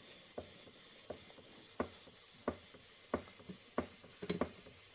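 Model Stuart Turner 'Mary' beam engine running slowly on compressed air: a steady hiss of air with a short, sharp beat about every two-thirds of a second, in time with the engine's strokes.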